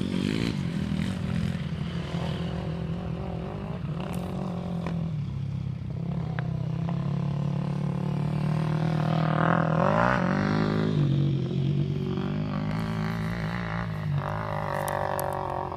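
Motocross bike engines running on a track, the pitch rising as a bike revs up about ten seconds in, then falling, and rising again near the end.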